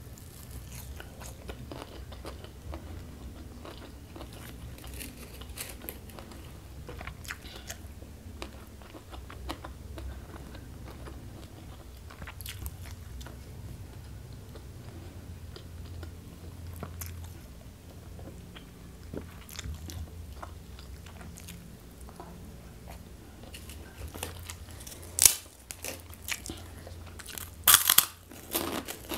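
Close-miked chewing of a mouthful of boiled greens and rice, steady wet mouth sounds with small clicks. Near the end come a few loud, sharp crunches as a crisp cracker is bitten.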